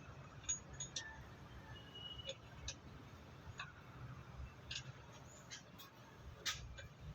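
Faint, scattered light clicks and taps, about a dozen at uneven intervals, over a low hum.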